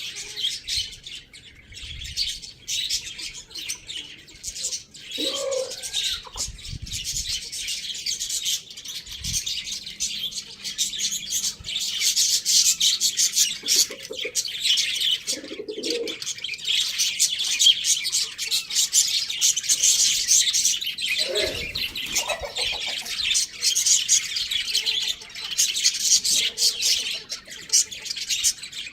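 Many small birds chirping and chattering without a break, a dense high twittering, with a few short lower calls now and then.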